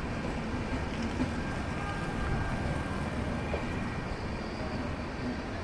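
A moving train's steady rumble and hiss, with no distinct clatter or horn.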